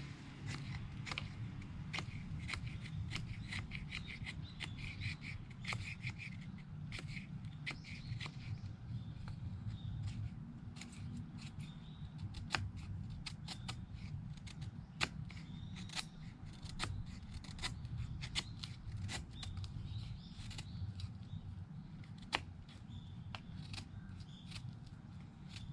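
Mora knife shaving thin curls off a wooden stick to make a feather stick: many short, sharp scraping cuts at an uneven pace, over a low steady rumble.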